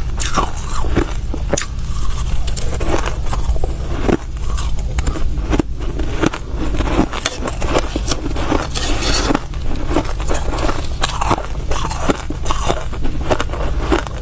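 Close-miked biting and chewing of soft crushed ice: a dense, irregular run of crisp crunches, with a denser burst of crunching a little past the middle. A steady low hum runs underneath.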